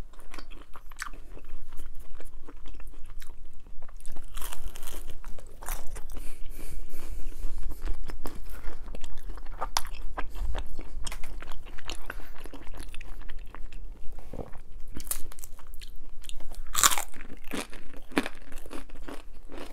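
A person biting and chewing crisp gluten-free pizza crust close to a clip-on microphone: an uneven run of crunches, some sharper and louder than others.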